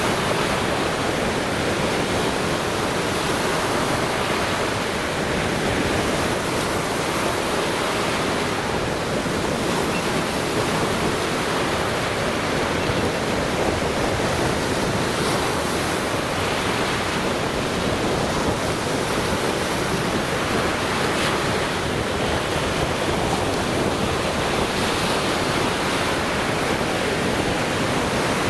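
Lake Michigan waves breaking on the shore in a steady, continuous wash of surf.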